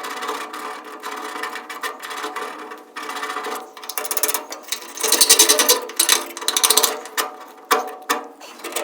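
Handheld electric drill running and boring a hole into metal: a steady motor whine with a fast rattle, loudest from about five to seven seconds in.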